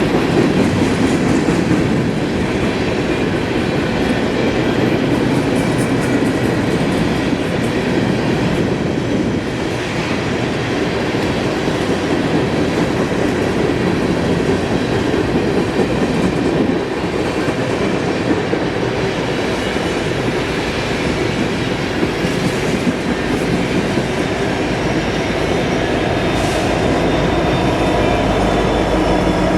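Norfolk Southern freight train rolling past, a steady loud rumble of steel wheels on rail with a clickety-clack of wheels over rail joints.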